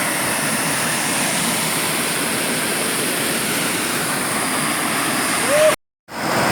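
Waterfall: a steady rush of falling water, cutting out briefly near the end.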